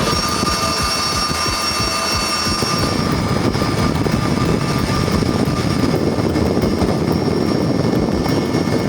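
CH-47 Chinook tandem-rotor helicopter running close by: a dense, fast rotor chop with a steady high turbine whine on top, the whine fading over the last few seconds.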